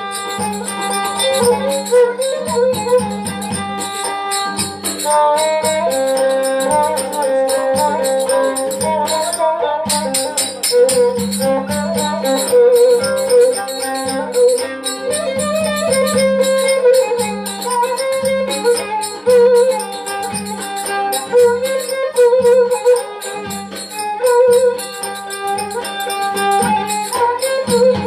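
Instrumental Turkish folk music: a melody line over a steady low drone, with quick rattling percussion strokes like a tambourine throughout.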